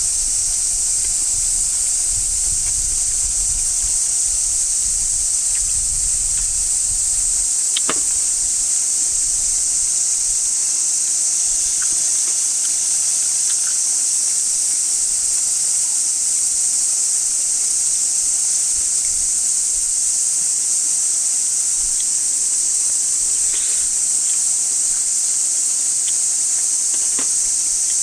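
Chorus of cicadas: a steady, loud, high-pitched drone that does not let up. A single light knock about eight seconds in.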